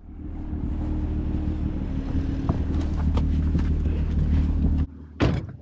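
Car engine running at a steady speed, heard from inside the cabin with road and wind noise. It cuts off abruptly near the end, and a brief sharp sound follows.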